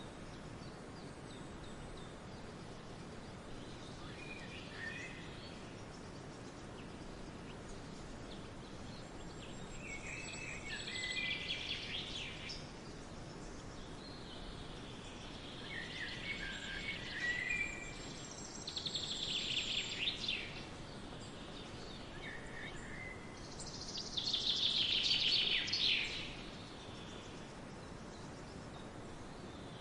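Birds singing in the forest: several short, high song phrases a few seconds apart, the loudest near the end, over a steady background hiss.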